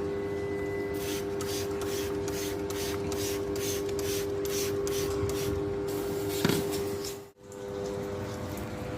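Quick repeated hissing spray bursts, about two to three a second for some five seconds, over a steady mechanical hum. This fits a hand trigger sprayer being worked during air-conditioner cleaning.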